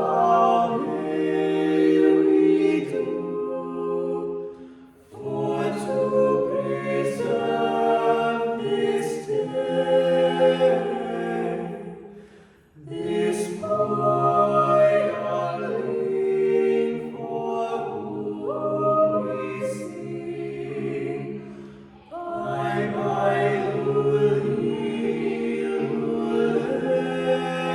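Unaccompanied choir singing slow, sustained chords in long phrases, with brief breaks between phrases a few seconds in, about halfway through and about three-quarters of the way through.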